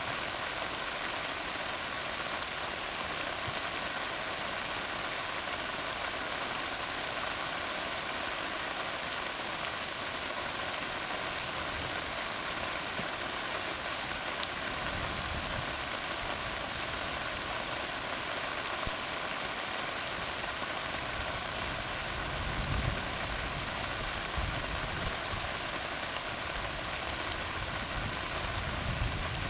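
Steady rain falling on a tar road, a dense even patter with scattered sharper drop hits. A low rumble swells briefly around the middle and again for the last third.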